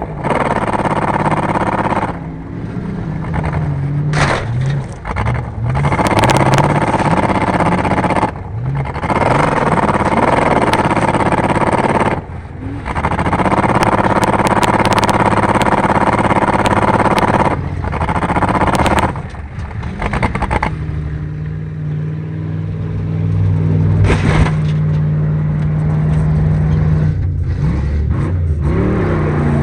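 Car engines in a junk car race, revving up and falling back again and again. Short knocks and scrapes break in, then the engine settles into a steadier drone for several seconds near the end.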